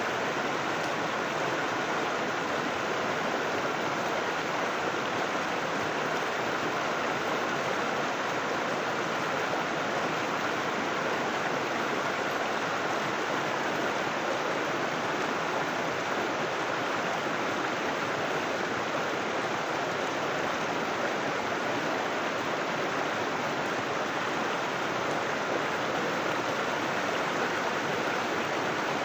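River water flowing and rushing steadily, an even unbroken sound with no splashes or changes standing out.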